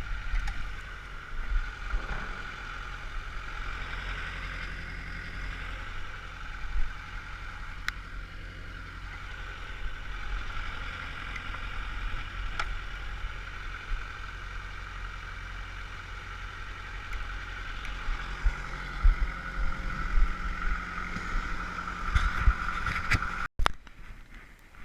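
Kubota L48 tractor's four-cylinder diesel engine running steadily under a light load, with a steady high whine over the engine hum and a few knocks. The sound cuts off abruptly near the end.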